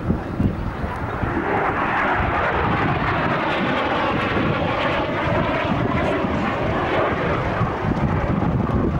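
A jet aircraft's engine, a rushing noise that swells over the first couple of seconds and eases off again after about six seconds.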